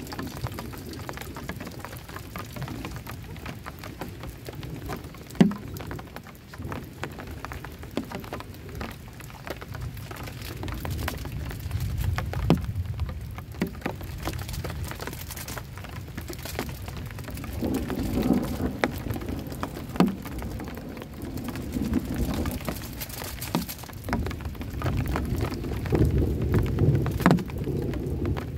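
Heavy rain pattering steadily on a camping shelter, with a single heavier drop landing close by every few seconds. Thunder rumbles low in slow swells, loudest near the end.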